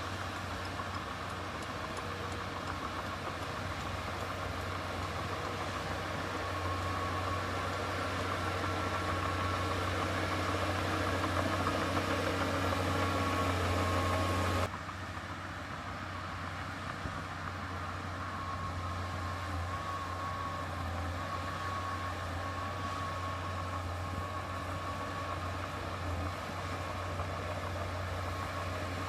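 Heavy diesel engine of earthmoving machinery running steadily with a deep hum, growing slightly louder, then cutting abruptly about halfway to a somewhat quieter engine sound.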